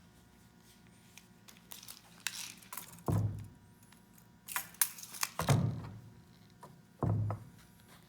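Rustling and crinkling handling noises, broken by three dull thumps.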